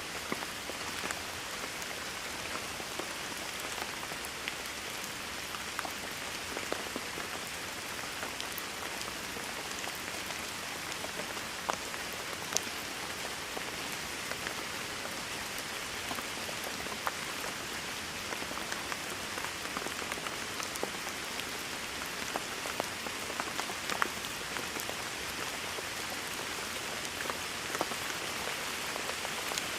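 Steady heavy rain falling on a surface, a dense even hiss with scattered sharp ticks of individual drops striking close by.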